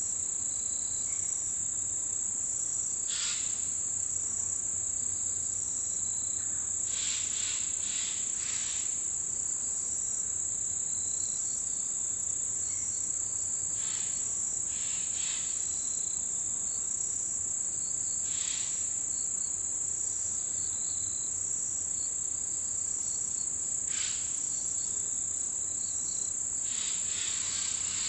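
A chorus of autumn insects, crickets and their kin, keeps up one steady high-pitched trill, with a few brief, lower chirps or calls here and there.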